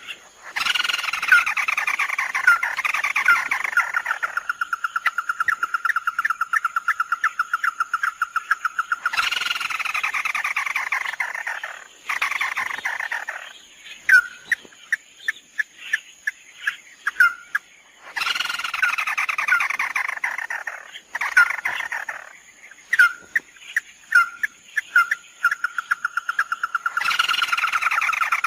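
Lure recording of the bird known in Vietnam as 'mắt đỏ' calling: loud, fast trilled phrases that fall in pitch and then hold a rapid, even trill, starting over about every nine seconds, with single sharp call notes between them.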